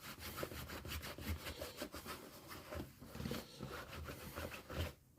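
Acetone-soaked rag scrubbed over the rubber of a punctured tyre around the hole, cleaning and degreasing it ready for a patch: repeated quick rubbing strokes.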